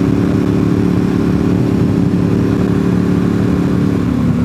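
Motorcycle engine running at a steady pace while riding, with wind noise over the microphone.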